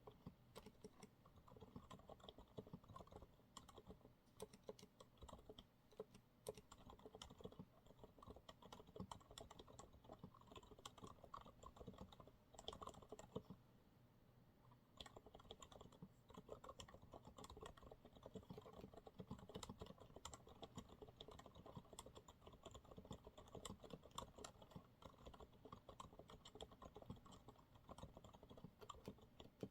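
Quiet, continuous typing on a Monsgeek MG108W keyboard with TTC silent brown (tactile) switches: a dense, irregular patter of soft keystrokes, with a brief pause about halfway through.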